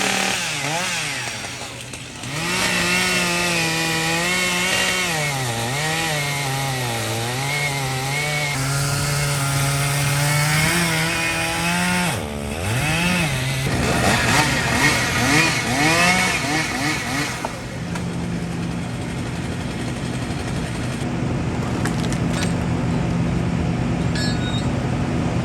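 Stihl MS 880, a big two-stroke chainsaw, run at full throttle through a large elm trunk, its engine pitch sagging and recovering as the chain loads up in the cut. After about twelve seconds it revs up and down in quick blips, then settles to a steadier, lower engine note for the last several seconds.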